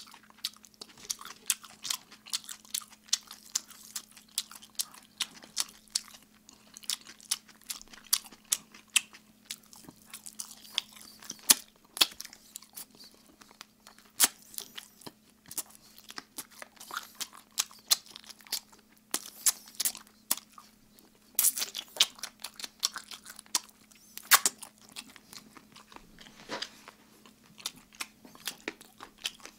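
Close-miked eating of Kyochon Red Combo fried chicken: irregular sharp crunches of the fried coating and wet chewing, over a faint steady hum.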